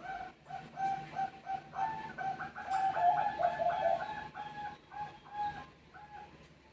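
Zebra doves cooing: a rapid run of short, repeated coo notes, about three to four a second, that tails off near the end.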